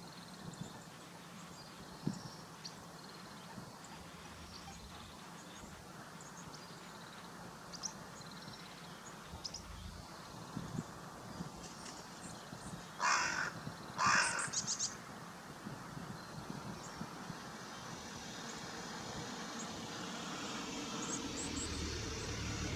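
A crow cawing twice, loud harsh calls a little past the middle, over scattered faint high bird chirps. A road vehicle's noise grows near the end.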